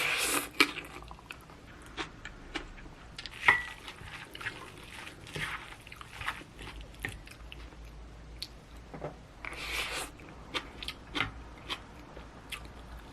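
Close-miked eating: bites and chewing with crunchy bursts and small mouth clicks. A sharp clink rings out about three and a half seconds in.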